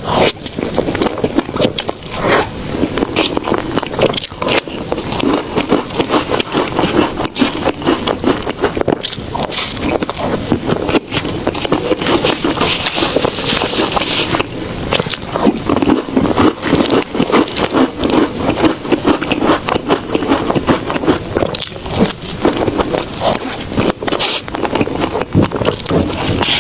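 Close-miked eating sounds of soft desserts being chewed, a steady run of rapid mouth clicks and smacks.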